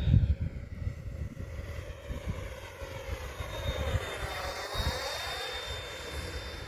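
Freewing F-22 electric ducted-fan model jet flying past, a steady high fan whine with a sweeping hollow tone as it makes a close pass about four to five seconds in. Wind buffets the microphone throughout.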